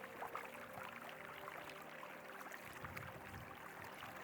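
Faint, steady rush and babble of river water flowing.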